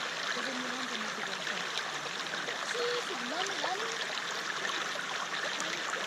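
River water flowing steadily, a constant rush of running water with a few wavering gurgling tones.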